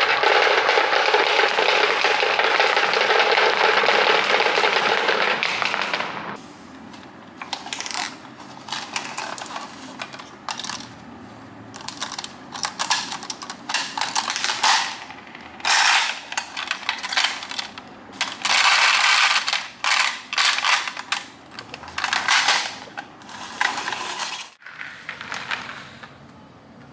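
Marbles clattering: a dense, continuous rattling pour for about the first six seconds, then a series of short separate bursts of clattering.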